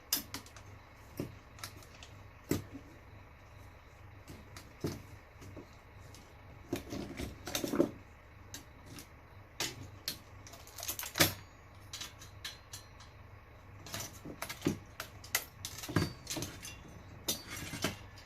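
Irregular metallic clicks, knocks and clinks of hand tools and metal parts being handled as an old eMac computer is taken apart, with louder clusters of clattering around the middle and near the end.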